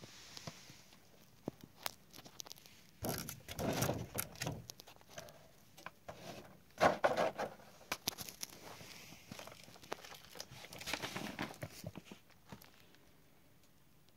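Paper rustling and crinkling in several bursts, with small clicks and taps, as of sticker-book pages being handled.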